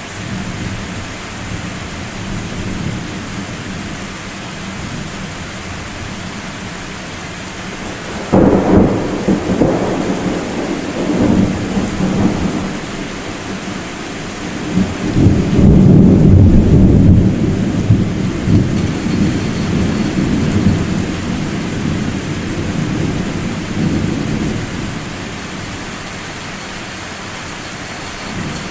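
Thunder over steady rain: a sudden clap about eight seconds in rumbles for a few seconds, then a second, louder peal builds about fifteen seconds in and rumbles on before dying away.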